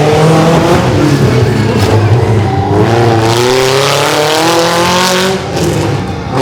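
Mini monster truck engine running hard. Its revs climb over a couple of seconds, then drop off sharply about five seconds in.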